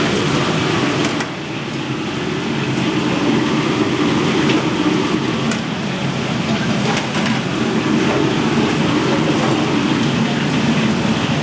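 Steady, loud din of a busy street food stall, with voices mixed in and a few sharp clicks and clatters.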